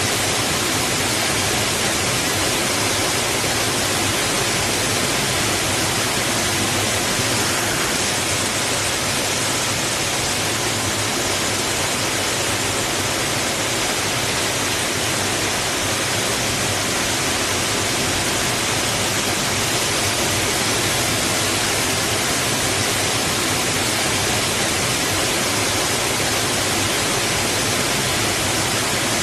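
Water rushing steadily against rocks, an even unbroken noise without surges or separate splashes.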